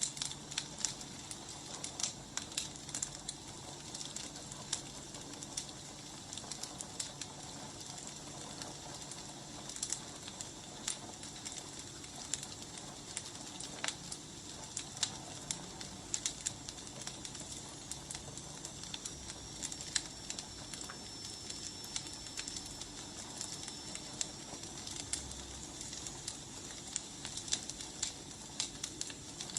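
Wood fire burning, a steady hiss with irregular sharp crackles and pops from the burning logs.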